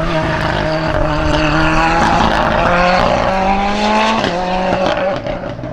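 Hill-climb race car engine accelerating hard, its pitch climbing steadily, then dropping sharply about four seconds in as the revs fall, and growing quieter near the end as the car moves away.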